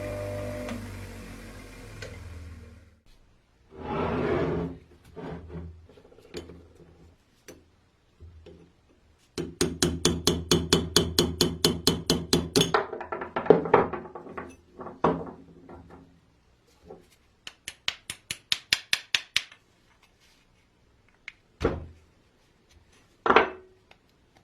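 Hand-tool work on the parts of a vintage coffee grinder: scattered knocks, then two runs of quick, even taps at about five or six a second, and two sharp single knocks near the end. A steady sound with held tones fades out in the first few seconds.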